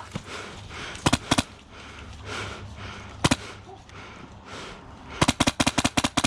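Airsoft guns firing: a few single shots spread out, then a quick string of about eight shots in about a second near the end.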